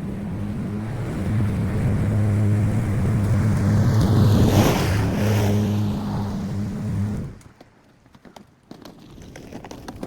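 Lawn mower engine running steadily, then stopping about seven seconds in, leaving faint clicks.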